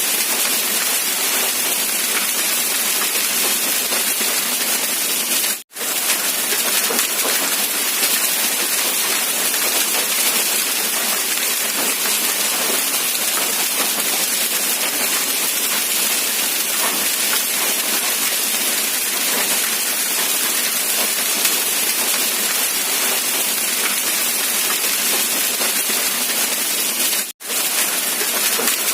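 Steady rain, a dense even hiss with no pitched sounds in it. It cuts out for an instant twice, about six seconds in and near the end.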